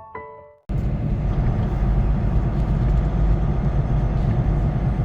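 Soft piano music fades out, then a cut to the steady low rumble of a semi-truck's engine and road noise heard inside the cab while driving.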